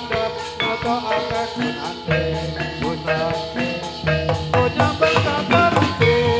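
Javanese gamelan-style music accompanying a gedruk dance: a quick run of struck, ringing metallophone notes over a low drum beat.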